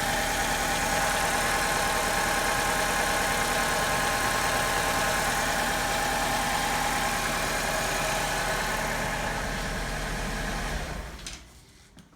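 Alfa Romeo 147 2.0 Twin Spark four-cylinder engine idling steadily; the owner says it has a miss at idle. The engine is switched off near the end and its sound dies away.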